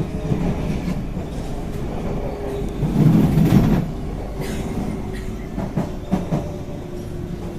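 Interior running noise of a C151A MRT electric train in motion, with a faint steady motor whine, a louder low rumble about three seconds in, and a few sharp clacks from the wheels over rail joints shortly after.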